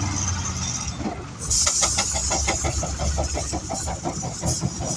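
Steam engine working under load on a pull: about a second and a half in, a loud hiss of steam starts with a fast, even chuffing of exhaust beats, roughly six a second, over a low engine hum.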